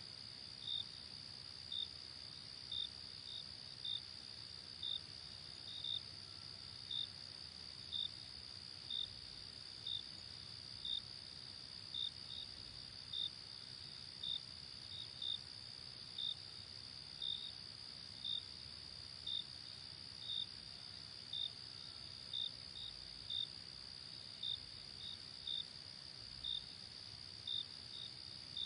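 Night insects: a steady high-pitched trill with short cricket chirps repeating about once a second, now and then in quick pairs, over a faint even background hiss.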